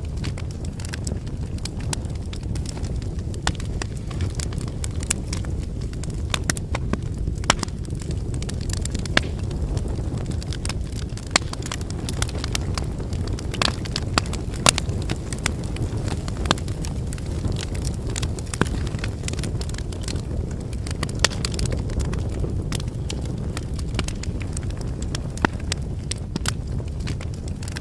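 Wood campfire burning, with a steady low rumble of flames and frequent irregular sharp crackles and pops from the burning logs.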